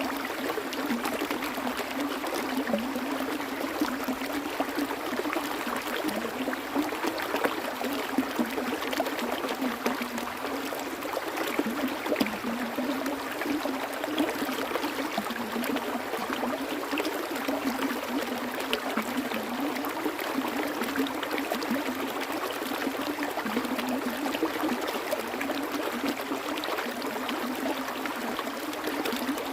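A small stream of flowing water running steadily, with a low wavering gurgle and many small splashes.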